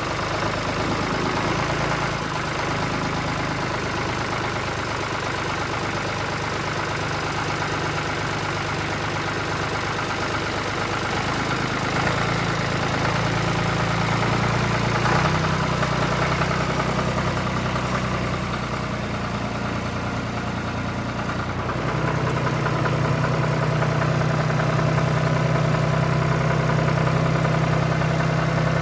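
Steady engine idling sound, stepping up in loudness about twelve seconds in and again about twenty-two seconds in.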